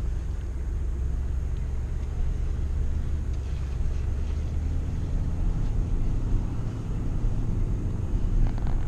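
Car cabin noise while driving: a steady low rumble of engine and road, heard from inside the car.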